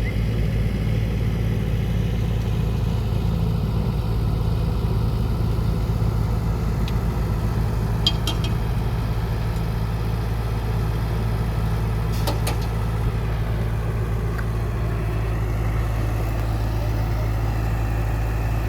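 Diesel engines of a Cat E120B excavator and the dump truck it is loading, running steadily with a low, even hum. A few sharp metallic clinks come about eight and twelve seconds in.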